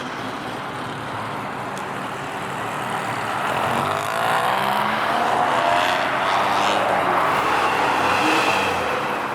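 A car accelerating hard past, its engine revving up with a rising pitch, under a broad rush of exhaust and tyre noise that builds from about three seconds in and stays loud until near the end.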